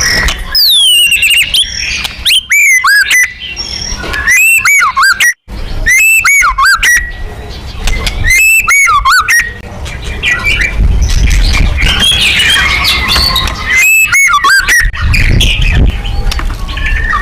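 White-rumped shama (murai batu) singing loudly: short bursts of rapid, looping whistled notes, repeated every second or two. A more jumbled, scratchy run of song comes in the middle.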